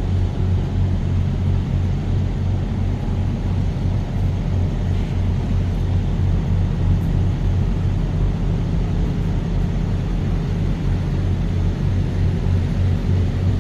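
Truck engine and road noise as the truck drives along: a steady, unchanging low drone.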